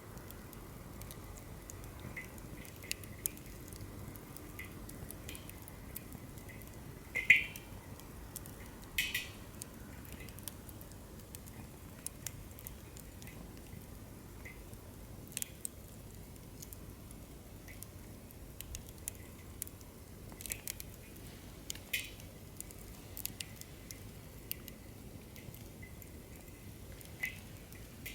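Firewood burning in a campfire fire stand, crackling with scattered sharp pops over a low steady hiss, as a burnt-through log collapses in the fire. The loudest crack comes about seven seconds in.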